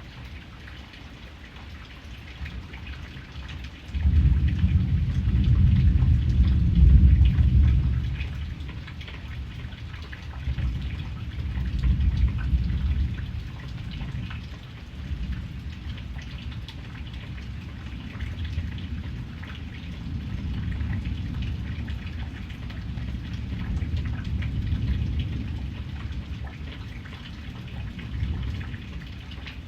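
Steady rain pattering, with thunder: a low rumble starts suddenly about four seconds in, is loudest over the next few seconds, then rolls on in slow swells.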